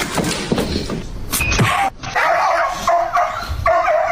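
A dog barking amid scuffling and knocking noise. After a sudden cut about two seconds in, a cat yowls in long, drawn-out cries held on a steady pitch.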